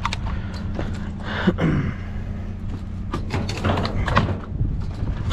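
Scattered knocks and clatters of scrap debris in a dumpster as a reacher-grabber tool pokes at ceiling fan blades and fails to grip them, over a steady low hum.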